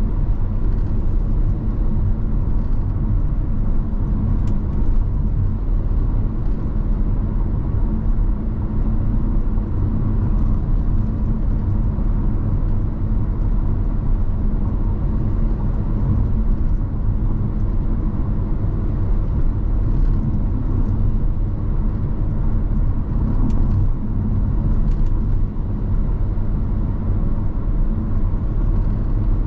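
Car driving on the highway: a steady low rumble of engine and tyre noise, with a few faint brief ticks now and then.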